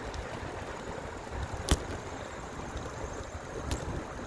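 Steady rolling noise of a bicycle ride, tyres on the path with rushing air, and one sharp click a little under two seconds in.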